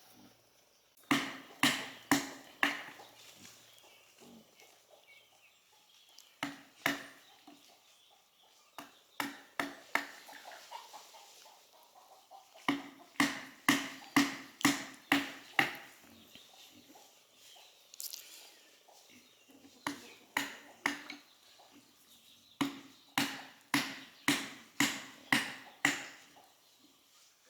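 Repeated blows of a hand tool, such as chopping or hammering, in runs of several strikes at about two a second, each with a brief ring. Single knocks fall in the pauses between runs.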